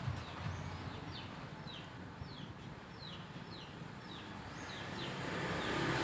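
A small bird chirping over and over, short high notes that fall in pitch, about two a second, over faint background noise.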